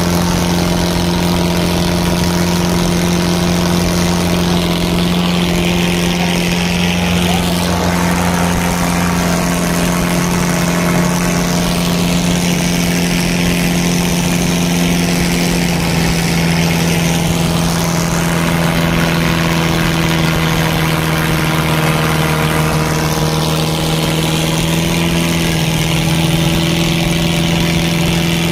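Tractor diesel engine running steadily at constant revs, its pitch shifting slightly near the end.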